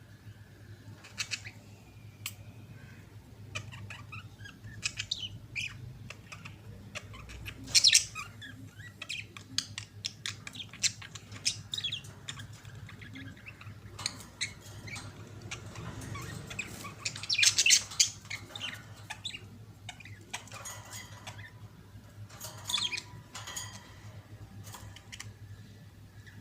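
Budgerigars chattering with short chirps and squawks at irregular intervals, with louder bursts of calls about eight seconds in and again at around seventeen seconds, over a steady low hum.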